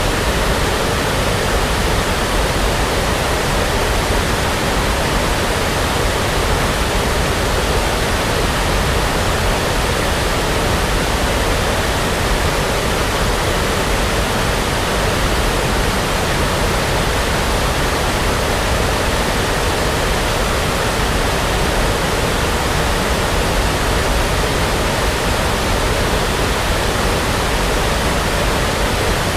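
Steady synthetic brown noise: an even, unchanging rushing hiss with no breaks or changes.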